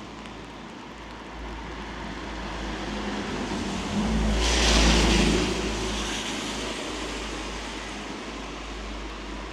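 A car passing close by on a wet road, its tyres hissing: the sound swells to a peak about five seconds in, then fades away.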